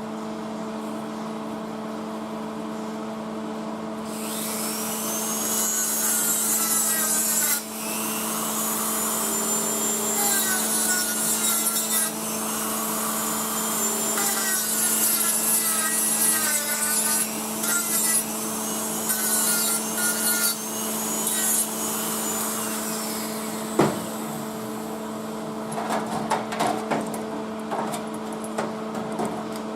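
A power grinder working sheet steel in three long spells, its pitch rising and falling as it is pressed on and eased off, over a steady low hum. A single sharp knock follows, then light clattering of metal parts being handled.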